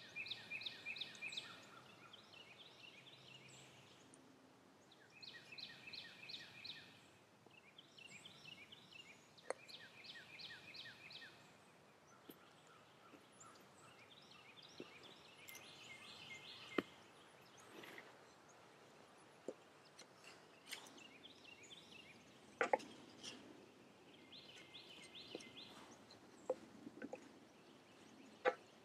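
A bird calling over and over in short phrases of rapid high notes, with a few sharp clicks and knocks of a wooden spatula against an enamelware skillet.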